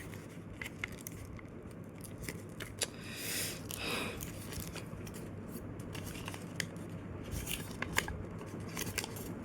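Sheet of paper being folded and pressed into shape by hand: light crinkling with scattered small crackles as the creases are worked, and a longer rustle about three to four seconds in.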